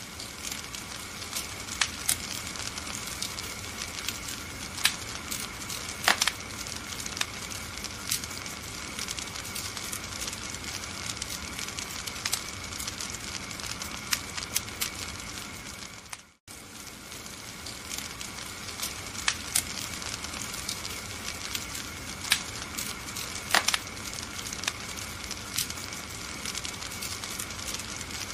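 Wood fire in a fireplace, crackling and hissing steadily with frequent sharp pops. About halfway through the sound cuts out for a moment and fades back in.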